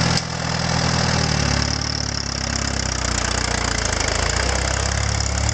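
Allis-Chalmers CA tractor's four-cylinder engine running steadily.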